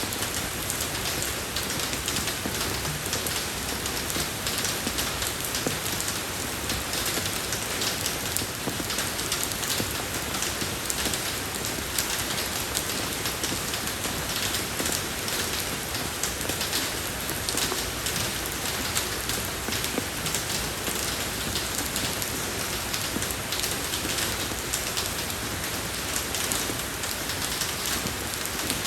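Steady rain falling on a road surface, a continuous patter of many fine drops.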